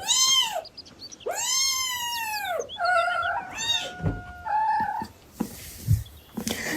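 Cat meowing: a short meow, then a longer drawn-out meow, followed by several shorter, flatter mews, with a couple of low thumps in between.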